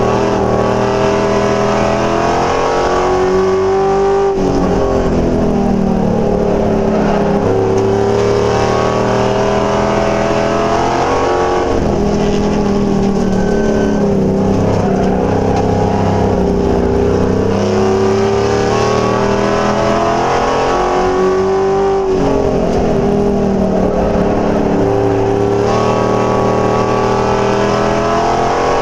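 Race truck engine at racing speed, its pitch climbing and falling in repeated cycles several seconds apart as it accelerates and lifts around the track.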